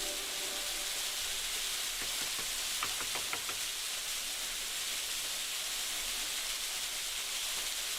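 Steady hiss of falling water, even throughout, with a few faint light clicks about three seconds in.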